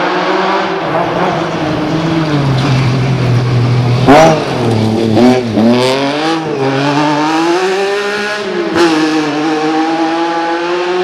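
Lancia Stratos's Ferrari Dino V6 engine running and revving. Its pitch rises sharply and drops back about four seconds in, dips and climbs again, then holds steadier near the end.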